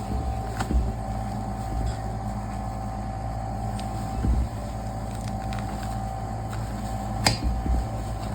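A steady machine hum with a few low thumps and a single sharp click about seven seconds in.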